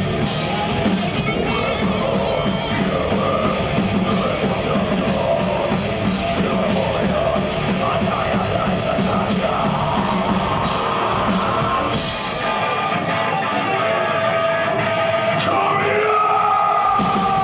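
Live death metal band playing: distorted electric guitars over drums. The low bass end drops away for a few seconds near the end, then comes back in.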